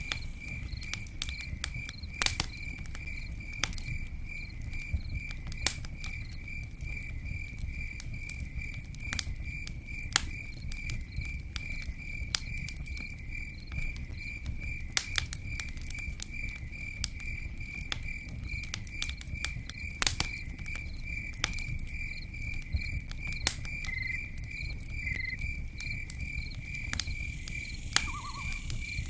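Campfire crackling, with irregular sharp pops over a low steady rumble, while a cricket chirps throughout in a high, even pulsing trill.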